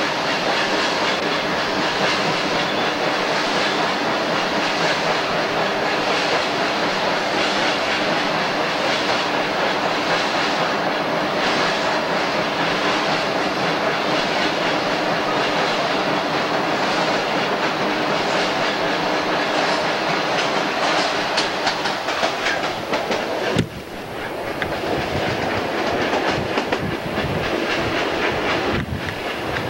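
Freight train running through a tunnel, a steady, dense rumble of wheels on rail. About 24 seconds in, the sound suddenly drops and opens out as the train leaves the tunnel, followed by quick clicking of wheels over rail joints.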